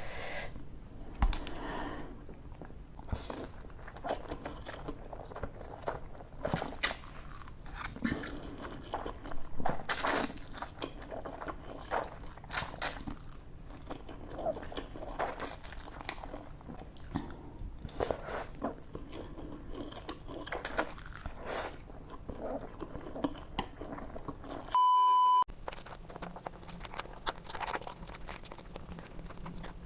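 Close-miked eating sounds: chewing and biting food, with many short crisp mouth clicks. A brief steady electronic beep sounds once near the end, after which the sound changes as a different clip begins.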